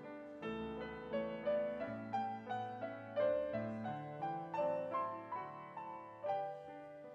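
Piano playing a gentle piece: a melody of struck notes, each fading away, over lower held chords.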